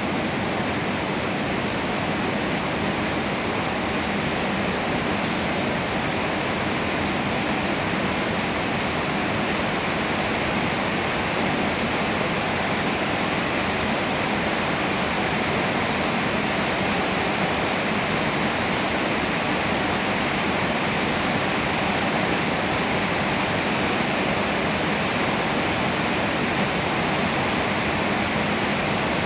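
Steady rainfall: an even, unbroken hiss of rain that neither builds nor eases.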